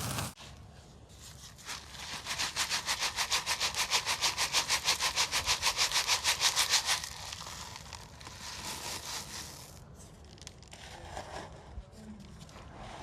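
Gritty dry cement being sifted: fast, even rasping strokes, about seven a second, from about two seconds in until about seven seconds, then softer scattered crumbling and rustling.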